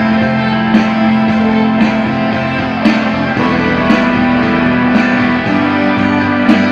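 Rock band playing an instrumental passage with no singing: electric guitar and long held chord notes that change every few seconds, over a steady drum beat with a sharp hit about once a second.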